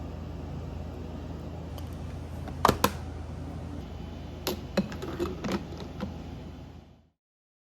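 Sharp clicks and light knocks over a steady low hum: two close together about three seconds in, then a cluster of smaller ones. The sound cuts off abruptly about seven seconds in.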